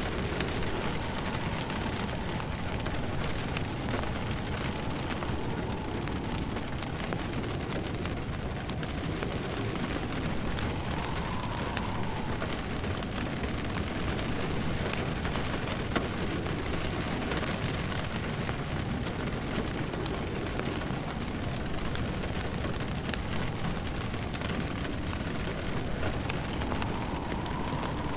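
Steady rain mixed with a fireplace crackling, with frequent small snaps and one sharper pop about sixteen seconds in.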